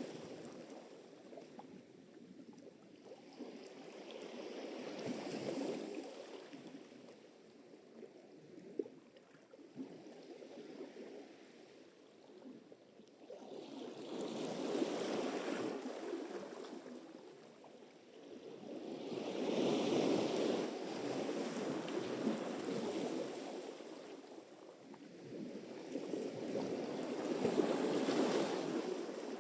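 Sea surf: waves breaking and washing up the shore in slow surges, about four swells that build and fade, with a softer hiss of water between them.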